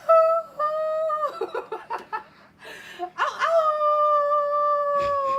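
A woman howling in imitation of a coyote: two long held howls, the second rising at its start and then held, sinking slowly in pitch. Short broken vocal sounds come between the two howls.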